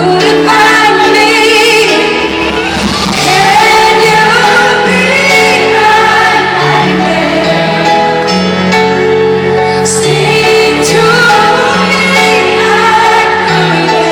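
Female pop singer performing a ballad live with instrumental accompaniment, loud and steady, with long held, wavering notes in the reverberant sound of a large arena.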